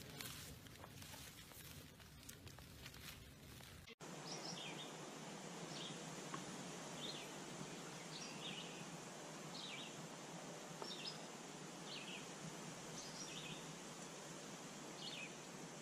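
Faint steady hiss with a small bird chirping repeatedly from about four seconds in: short, high, falling notes, roughly one a second.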